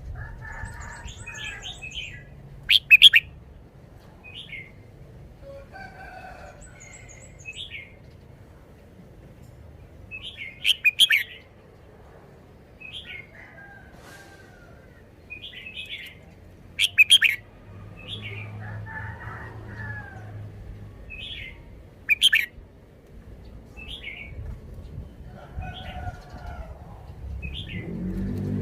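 Red-whiskered bulbul singing: short chirping notes every second or two, with a louder, sharper burst about every five to six seconds. A faint high wavering trill comes from another bird near the start and again about seven seconds in.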